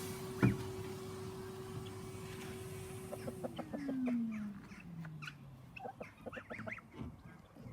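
Vacuum cleaner motor humming steadily, then winding down in a falling whine after about three seconds as it is switched off. A sharp click comes about half a second in, and chickens cluck through the second half.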